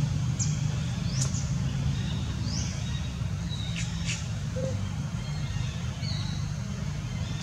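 Birds giving a handful of short, high, rising chirps over a steady low hum.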